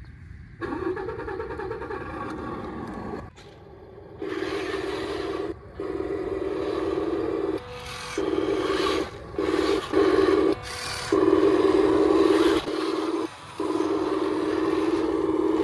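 RC truck's electric drive motor and gearbox whirring in repeated start-stop bursts of a second or two, with a brief higher-pitched step now and then.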